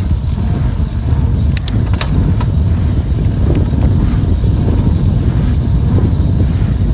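Steady low rumble of wind buffeting the microphone on a moving bicycle, with a few brief sharp clicks between about one and a half and three and a half seconds in.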